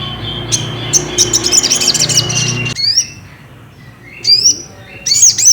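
Sogok ontong (little spiderhunter) calling: a fast run of high, sharp chirps for about two seconds, a pause, then another burst of repeated arched chirps near the end.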